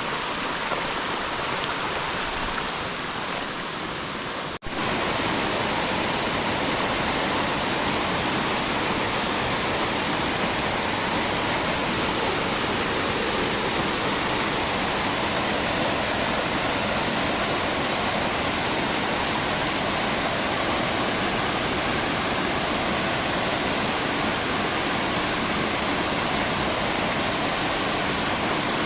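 Water rushing steadily down a tiered waterfall. About five seconds in the sound cuts abruptly to a louder, fuller rush.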